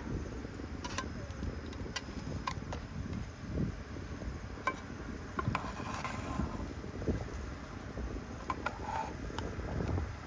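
Steady high insect chirring, with scattered light clicks and knocks over a low rumble.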